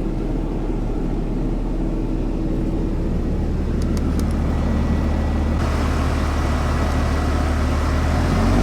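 Car driving slowly, heard from inside: a steady low engine and road hum that grows gradually louder, with a few faint clicks about four seconds in.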